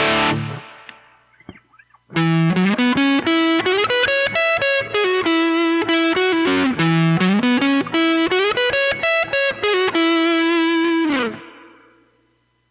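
Distorted electric guitar, a Gibson Les Paul-style guitar played through a Peavey ValveKing II valve amp. A chord rings out and dies away, then after a short pause comes a fast lead run of single notes with a slide down and back up midway. It ends on a held note that slides down and fades out.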